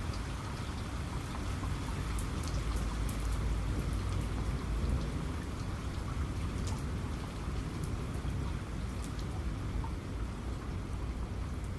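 Heavy rain falling steadily, with scattered drops ticking sharply close by and a low rumble of distant thunder underneath.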